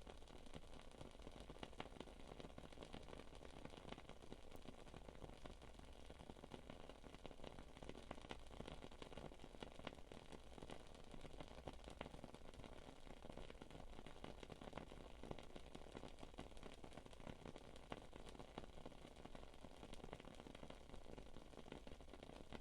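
Wood wick candle crackling faintly: a soft steady hiss scattered with many small, irregular pops and ticks.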